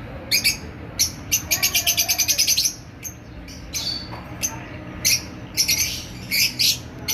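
Peach-faced lovebirds chirping in sharp, high-pitched calls. A fast run of about a dozen chirps comes in the first few seconds, and more bursts of chirps follow later.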